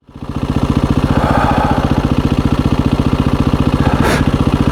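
KTM 350 EXC-F dirt bike's single-cylinder four-stroke engine idling steadily, with a brief click about four seconds in.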